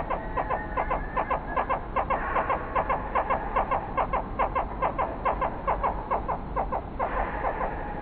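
A bird calling in a steady run of short, clucking notes, about four a second, which stops about seven seconds in.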